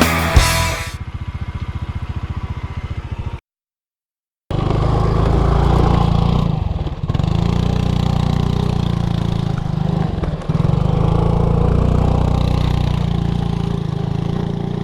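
Motorcycle engine running steadily under way, low-pitched and loud, dipping briefly twice. A rhythmic pulsing comes before it, with music cutting off in the first second and a second of dead silence at an edit.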